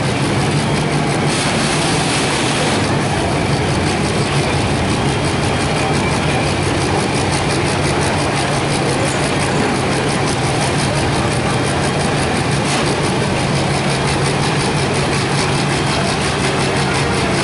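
Farmall pro-farm pulling tractor's engine idling steadily, with a short hiss about a second in.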